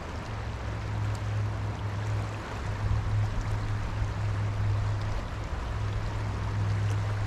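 Stream water rushing and splashing, an even noise with a steady low rumble underneath.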